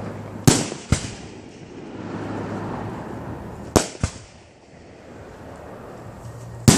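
Aerial firework shells bursting with sharp bangs: about half a second in, near four seconds, and again near the end. The first two bangs are each followed by a weaker second bang a fraction of a second later.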